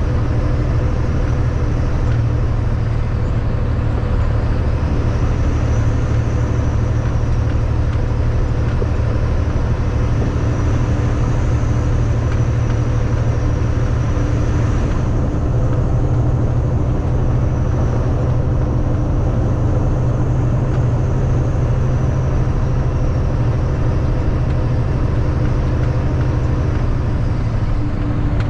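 Kenworth W900 semi truck's diesel engine droning steadily while driving, with road and wind noise; the high hiss thins about halfway through.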